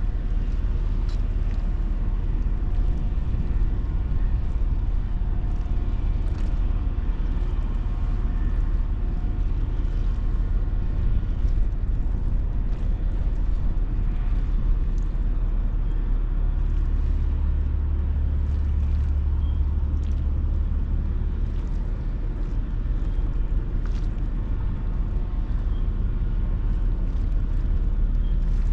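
Steady low rumble of a large ferry under way, with a deeper hum swelling for a few seconds past the middle.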